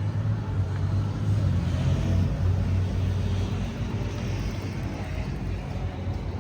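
Road traffic: a motor vehicle's engine running close by as a steady low hum over tyre and street noise, easing off near the end.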